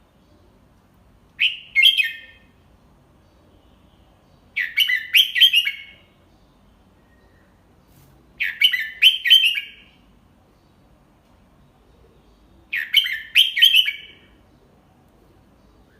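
Red-whiskered bulbul singing a short phrase of quick, clear notes four times, about every four seconds. The later phrases are three-note ones: the 'double-three' pattern that bulbul keepers play to young birds to copy.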